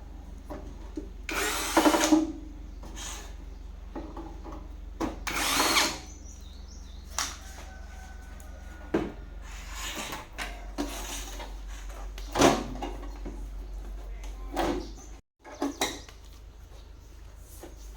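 A power tool running in short bursts, each under a second or so, the loudest about two seconds, six seconds and twelve seconds in, with knocks and handling clatter between them.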